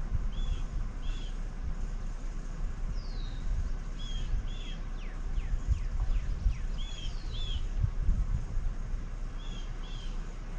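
Birds chirping: a two-note chirp repeated four times, a few seconds apart, with some quick downward-sliding notes between, over a steady low rumble.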